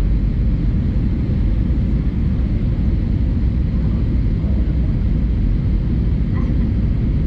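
Steady low rumble of an Airbus A320-200 in flight, heard from inside the passenger cabin: engine and airflow noise.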